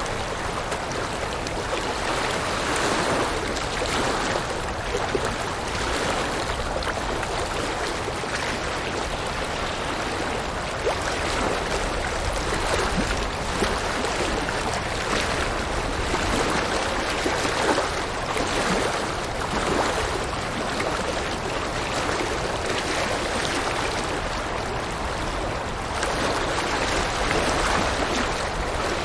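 River water rushing and babbling over rocks, a steady flowing noise that swells and eases gently.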